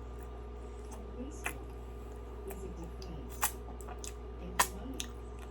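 Wet mouth clicks and lip smacks from chewing a soft doughnut close to the microphone: about six short sharp clicks spread out, the loudest a little past four and a half seconds in, over a steady low hum.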